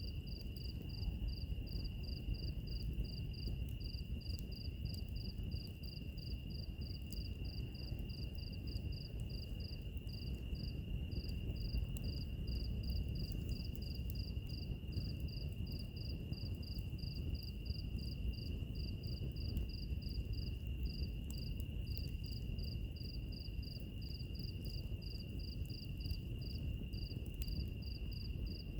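Crickets chirping at an even pace, about three chirps a second, over a continuous high insect trill. Beneath them a fireplace fire burns with a low rumble and scattered small crackles.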